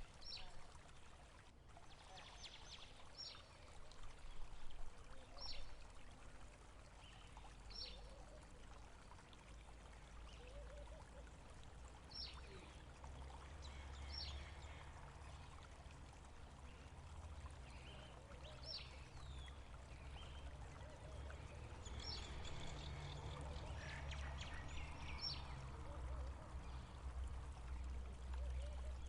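Small birds giving short, high, falling calls every second or two, over a steady low rumble that swells slightly later on.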